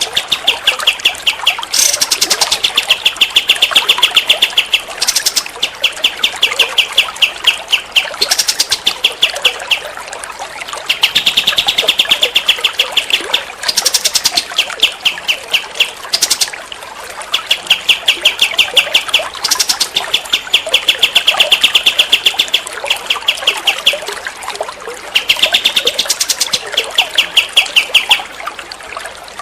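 A songbird singing in repeated bursts of fast, rattling trills, each lasting a second or two with short pauses between, over a steady background hiss.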